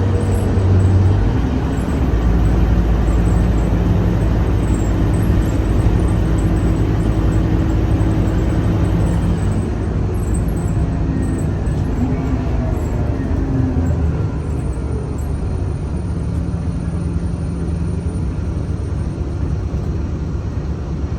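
Scania K310UA city bus engine running under way with a steady low rumble, easing off and getting quieter about two-thirds of the way through.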